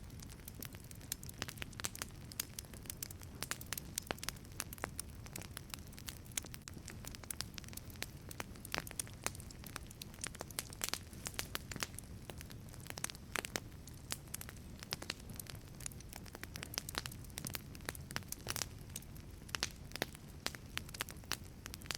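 Wood fire burning in a wood-fired pizza oven: dense, irregular crackling and popping of the burning logs over a steady low rumble of the flames.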